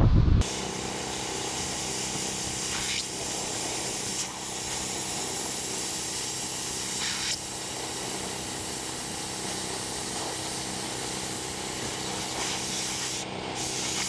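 Steady hissing, rubbing noise of power-tool surface work on a truck chassis, over an even motor hum.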